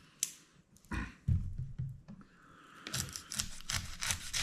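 Knife cutting food on a cutting board: a dull knock, a quick run of low knocks, then scraping with light clicks.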